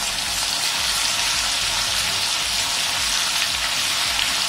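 Ginger-garlic paste frying in hot oil in a non-stick wok, with a steady sizzling hiss as it is stirred with a wooden spatula to brown it lightly.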